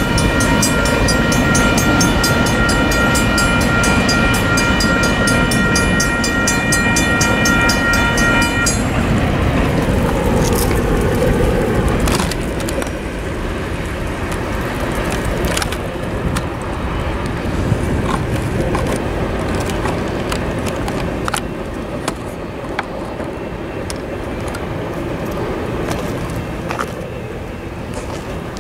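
Freight train rolling through a grade crossing with a low rumble, while the crossing's warning bell rings steadily over it. The bell stops about nine seconds in and the train noise drops away about three seconds later. Road cars then drive over the crossing with scattered thumps and clicks of tyres over the rails.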